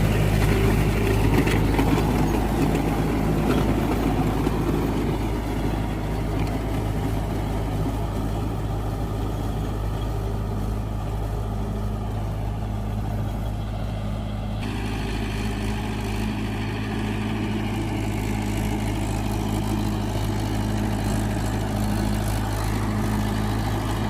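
Mahindra 585 tractor's diesel engine running steadily. It is a little louder for the first few seconds, and its tone changes abruptly about fifteen seconds in.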